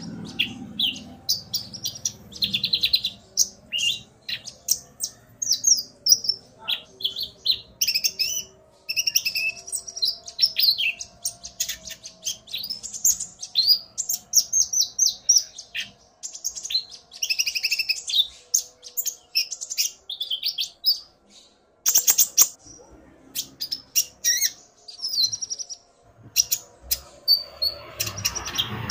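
Konin (kolibri ninja) sunbirds singing: rapid, high-pitched chirps and trills, almost without pause, with a short break about two-thirds of the way in.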